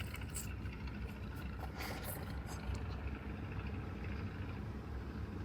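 Steady low background rumble, with a few faint short clicks in the first three seconds.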